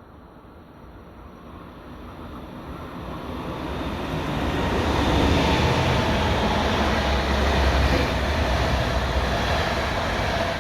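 A train approaching and passing, growing steadily louder over the first five seconds, then running by loud with a heavy rumble.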